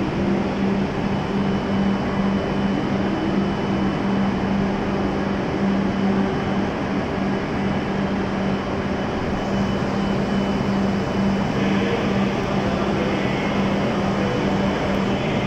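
Steady hum of a stopped E7-series Shinkansen's onboard equipment, with a low droning tone and a faint high whine over an even rush of air-conditioning noise, as the train stands at the platform.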